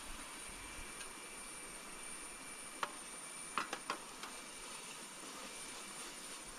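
Steady rush of a small river, with a thin high insect drone running over it. A few sharp clicks or knocks come close together about three seconds in.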